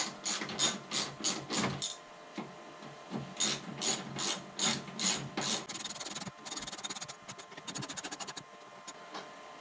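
Hand ratchet with a 10mm socket tightening the bolts that hold the snowblower's discharge chute. There is a run of short clicking strokes, a pause, a second run, then fast rattling ratchet clicks near the end.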